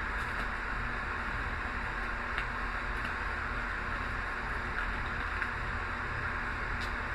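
Steady room noise, a hiss with a low hum underneath, with a few faint ticks of small items being handled.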